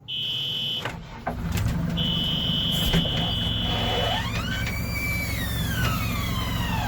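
Diesel engine of an earthmoving machine running under a steady low rumble. A high warning tone sounds twice, briefly and then for about two seconds. After it, a whine rises and then slowly falls.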